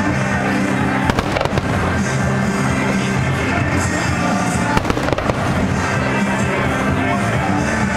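Fireworks bursting with several sharp bangs a few seconds apart, over loud music playing throughout.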